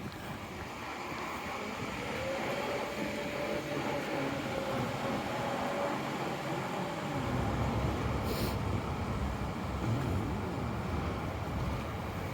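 City street traffic: a vehicle's engine whine rises and falls, then a heavier low rumble of a passing vehicle sets in about seven seconds in, with a short hiss just after.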